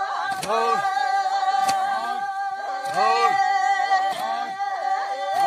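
Unaccompanied group singing: one voice holds a long steady note while other voices rise and fall in short repeated phrases over it.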